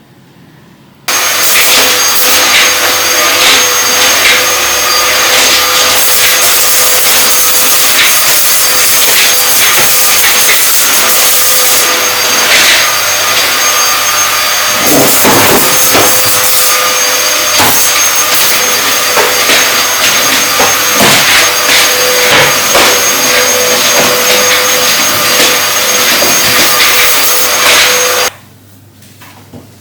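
Household vacuum cleaner switched on about a second in, running loudly and steadily with a faint whine and occasional knocks as it is worked, then switched off near the end.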